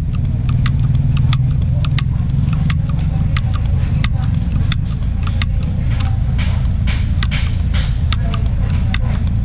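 An engine running steadily at idle, a constant low rumble, with a stream of sharp clicks, a few a second, from the grease-gun work on the truck's joints.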